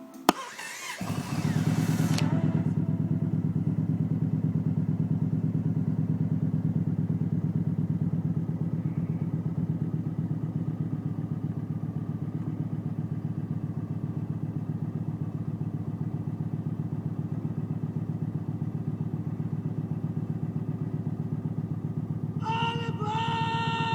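Yamaha Stratoliner's big V-twin engine coming to life about a second in after a sharp click, then idling steadily with an even, pulsing beat.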